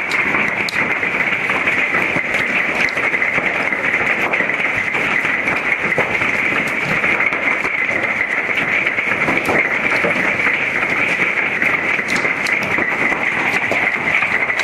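Large hail, golf-ball size, pelting down in a dense, steady hiss scattered with many small sharp impacts.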